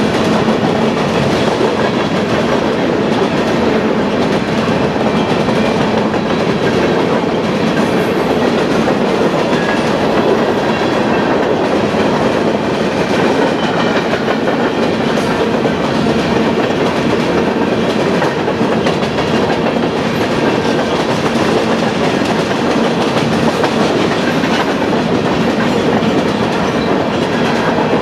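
Covered hopper cars of a Union Pacific grain train rolling past at close range: the steady, loud noise of steel wheels running on the rails, with no let-up.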